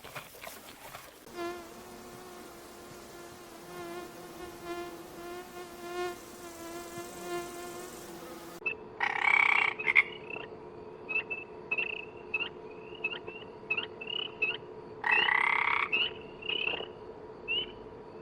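Animal calls: a steady buzzing drone for several seconds, then, after a cut, short high chirps repeating over a steady hum, with two louder calls about a second long.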